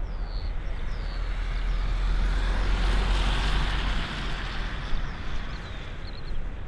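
Airbus A320 jet airliner passing close on its landing approach. The engines' roar swells to a peak about three seconds in and then fades, over a steady low rumble of wind on the microphone.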